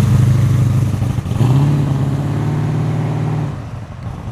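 A performance car's engine driving off: a steady engine note that dips about a second in, then revs up and holds before fading near the end as the car moves away.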